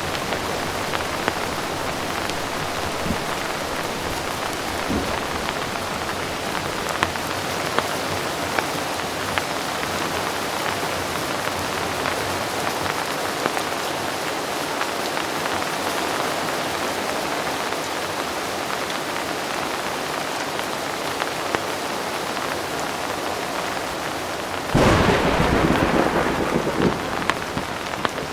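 Heavy rain falling steadily, with scattered sharp ticks of single drops. Near the end a sudden loud clap of thunder breaks in and rumbles for a few seconds before easing.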